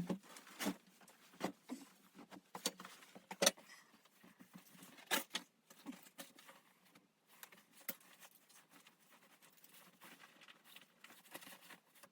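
Faint, irregular clicks and taps, scattered and unevenly spaced, the loudest about three and a half and five seconds in.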